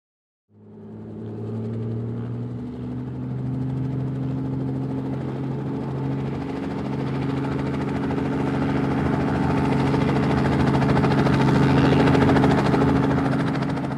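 Steady engine hum sound effect for the animated toy vehicles. It fades in about half a second in and grows gradually louder.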